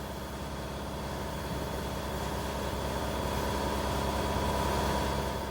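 A steady machine hum, several constant tones over a steady noise, slowly growing louder.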